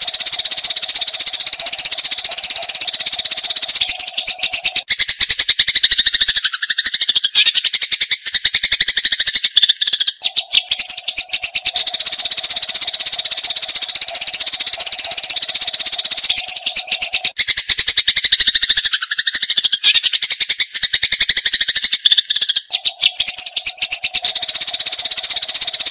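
Eurasian tree sparrows chattering in a fight: a dense, unbroken stream of rapid, harsh chirps. Beneath it a steady lower tone switches between a low and a higher pitch every five or six seconds.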